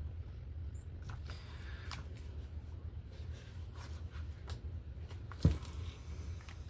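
Paper rustling and light handling sounds over a steady low hum, with one short thump about five and a half seconds in.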